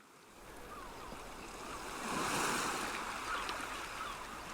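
Sea waves washing in, fading up from silence and swelling to a peak about two seconds in before easing off.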